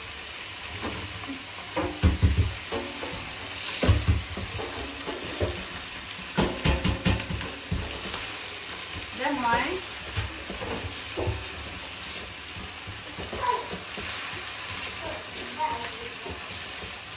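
Food sizzling as it fries in a pan, with a spatula scraping and knocking against the pan as it is stirred; the loudest knocks come in clusters about 2, 4 and 7 seconds in.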